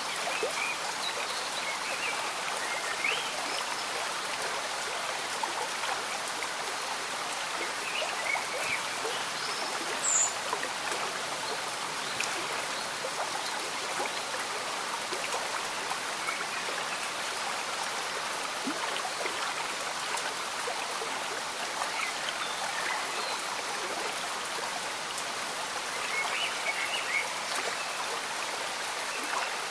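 Gentle stream bubbling and trickling under steady light rain: a continuous hiss of water dotted with small gurgles, and one sharper blip about ten seconds in.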